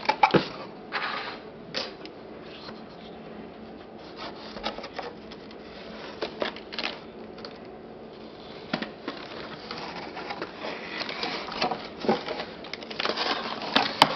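Packaging being handled during an unboxing: irregular rustling, crinkling and small clicks of cardboard and plastic, busiest near the end.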